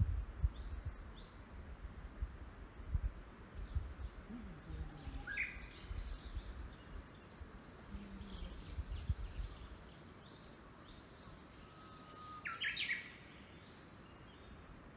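Wild forest birds chirping and calling in short, scattered notes, with one louder rising call about five seconds in and the loudest call near the end. Gusts of wind buffet the microphone with a low rumble through the first two thirds.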